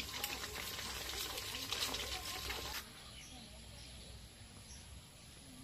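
Outdoor ambience with a few faint bird chirps. A noisy hiss cuts off abruptly about three seconds in, leaving a quieter background.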